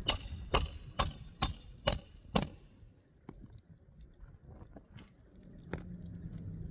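Hand hammer driving a roofing nail into a replacement shingle: six sharp strikes about half a second apart, each with a high metallic ring, then the hammering stops.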